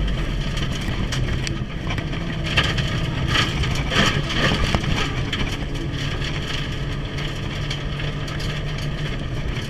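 Turbocharged Mitsubishi Lancer Evolution heard from inside the cabin, its engine running hard at speed. A cluster of sharp knocks and rattles comes about three to five seconds in.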